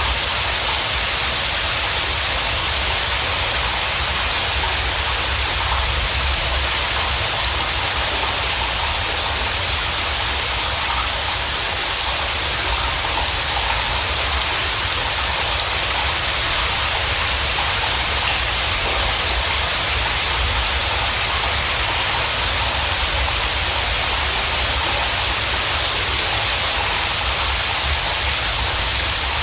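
Steady heavy rain, an even, unbroken hiss with a low rumble beneath it.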